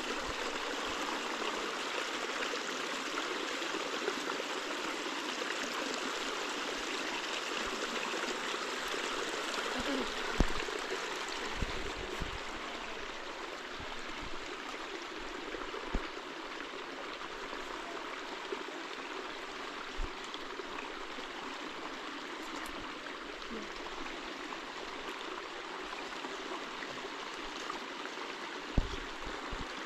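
Steady rush of running water, with a few short low knocks, the loudest about ten seconds in and others at about 16, 20 and 29 seconds.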